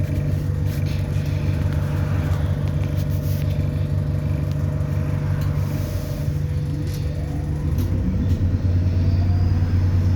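The hybrid drivetrain of an ADL Enviro400 Hybrid double-decker bus, heard from inside the cabin: a steady hum and drone. About eight seconds in, the engine note drops lower and grows louder, with a faint rising whistle from the turbo spooling up.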